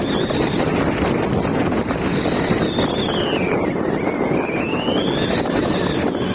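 A car driving, with steady road and wind noise, and a thin high whistle over it that slides slowly down to about the middle and then climbs back up.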